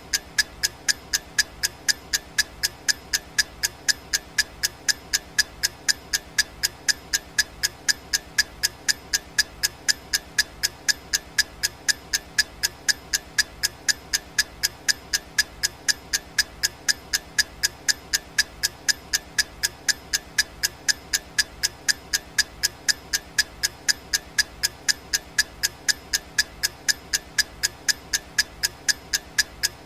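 Clock ticking sound effect of a countdown timer: sharp, evenly spaced ticks, about two a second, over a steady faint background.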